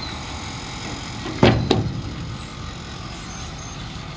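Two sharp knocks about a quarter of a second apart, over a steady low rumble.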